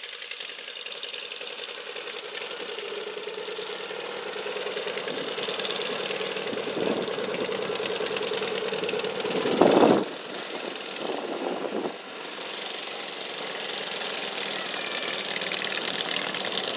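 Garden tractor pulling engine running at high, steady revs while pulling a stoneboat. A loud, sharp burst comes about ten seconds in, with a few shorter ones after it.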